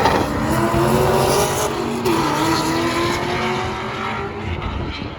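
Drift car engine held at high revs, its note wavering with a dip a little after two seconds before climbing again, over a hiss of tyre noise, gradually getting quieter.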